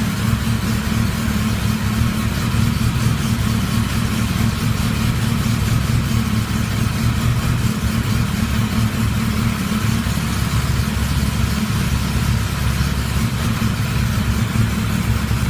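Yamaha XJ700N's air-cooled inline-four engine running steadily at idle from a cold start.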